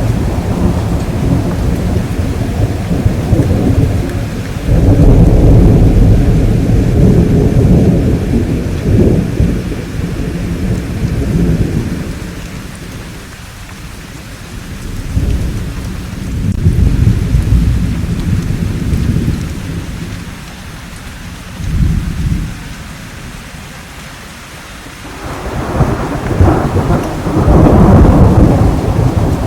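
Thunderstorm: steady rain under rolling thunder that rumbles in long swells. The thunder is loudest a few seconds in and again near the end, easing off in between.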